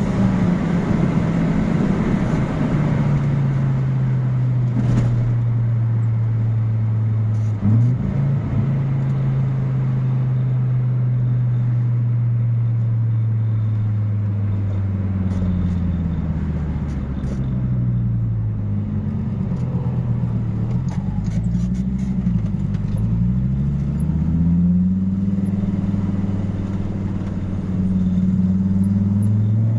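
Turbocharged Fiat Marea 2.0 20V inline five-cylinder engine, tuned to run on ethanol, running under way: its pitch settles after an early drop, holds steady, then rises and falls repeatedly through the middle as the revs change, and climbs again near the end.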